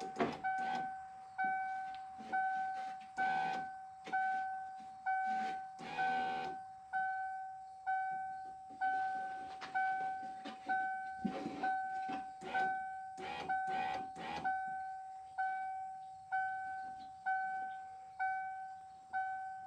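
A 1994 Ford F-150's dashboard warning chime dinging over and over, about once a second, each ding fading away. A few short knocks and rattles of hand work in the door sound between the dings.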